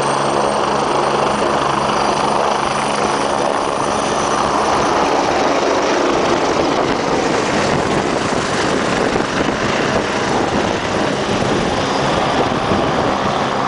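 Helicopter running, a loud steady rotor and engine noise with a low hum that blurs into rushing noise midway and comes back near the end.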